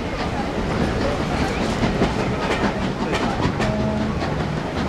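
Coaches of a steam-hauled train rolling past directly below, a steady rumble with wheels clicking irregularly over the rail joints.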